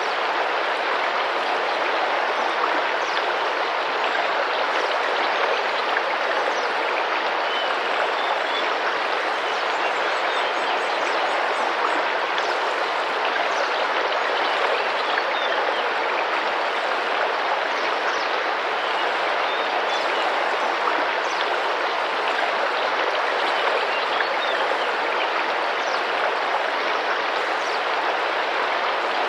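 Tropical rainforest river flowing and splashing steadily, with faint short descending bird calls scattered above the water.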